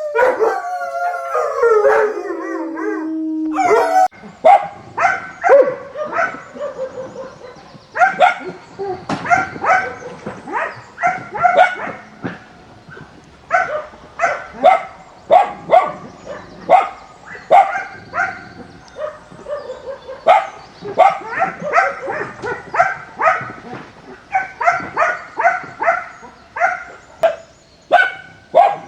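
Puppies yipping and barking in quick runs of short, high yelps. It opens with one long howling whine that falls in pitch over the first three or four seconds.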